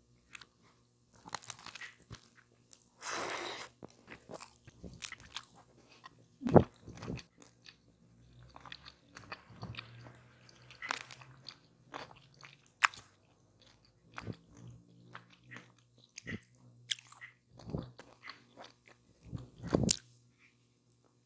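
Close-miked biting and chewing of a chicken taco with lettuce and tomato: irregular crisp crunches, a few bites much louder than the rest, with a brief rustle about three seconds in.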